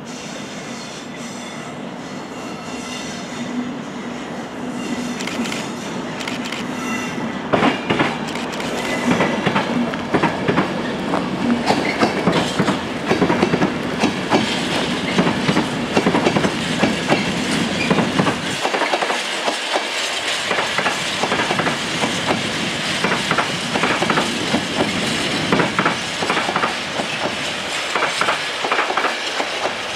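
EWS Class 60 diesel locomotive 60035 hauling a steel train, its engine drone growing louder as it approaches. From about seven seconds in, the wheels of the locomotive and the loaded wagons take over, clacking rapidly over the rail joints as the train passes close.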